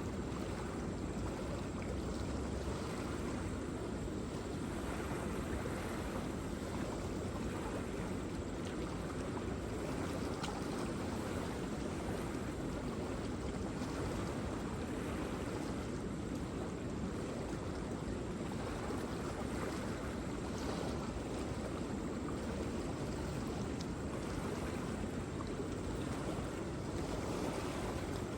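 Waterfall: a steady, deep rush of falling water with no change in level.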